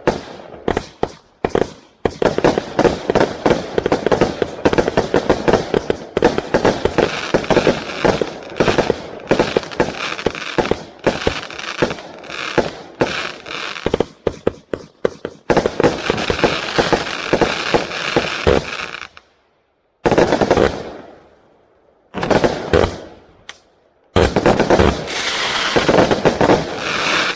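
200-shot Category F2 compound fireworks cake firing: a rapid, dense run of shots and crackling bursts. Around two-thirds through the firing stops for about a second, two single bursts follow with gaps between them, and then rapid firing resumes.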